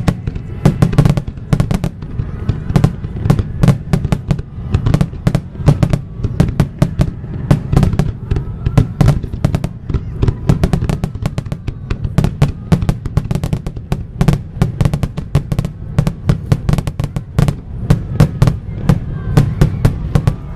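Aerial firework shells bursting in a rapid barrage, several sharp bangs a second over a continuous low rumble.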